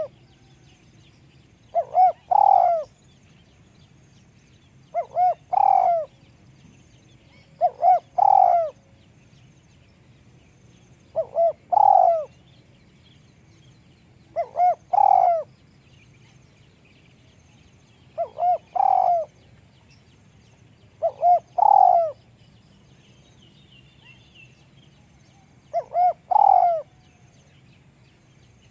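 Spotted dove cooing: a short phrase of two quick notes and a longer one, repeated eight times at about three-second intervals, with a slightly longer pause about two-thirds of the way through.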